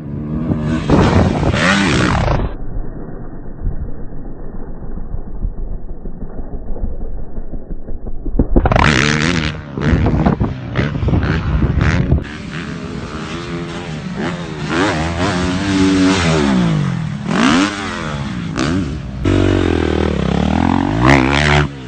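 Dirt bike engines revving, the pitch rising and falling with the throttle, across several short clips. For a stretch in the first half the sound turns dull and muffled, with no clear engine pitch.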